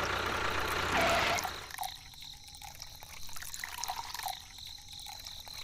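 Water dripping in small drops, two or three a second, after a brief rush of noisy sound in the first second and a half.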